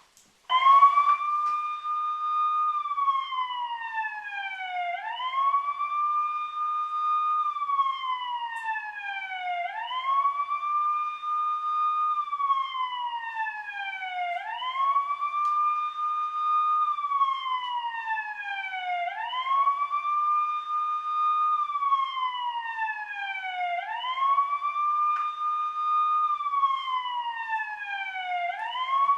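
Police siren wailing, played from a TV. Each cycle rises quickly, holds its pitch, then slides slowly down, repeating steadily about every five seconds. It starts abruptly about half a second in.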